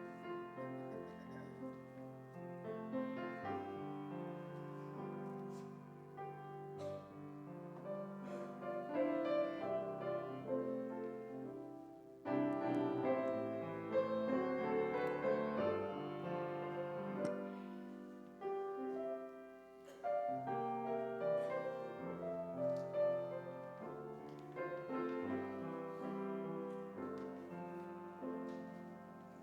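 Piano playing quiet, slow instrumental music in held, changing chords.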